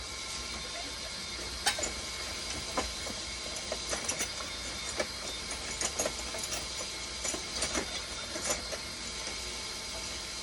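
Steady hum and hiss of a running machine, with a string of irregular light clicks and taps starting about two seconds in.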